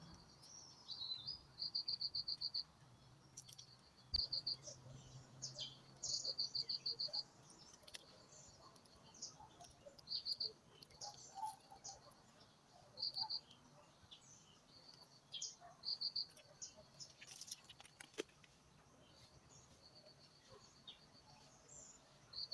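Short bursts of rapid, high-pitched pips, repeated every second or two, with scattered single chirps in between: outdoor animal calls, from birds or squirrels.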